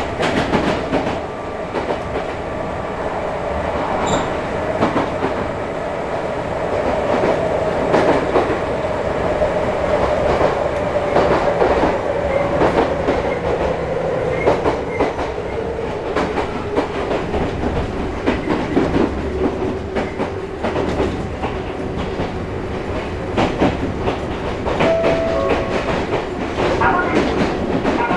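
Onboard running sound of a Chichibu Railway 5000 series resistance-control electric train: steady wheel and track rumble with frequent rail-joint clicks, and a whine that slowly falls in pitch.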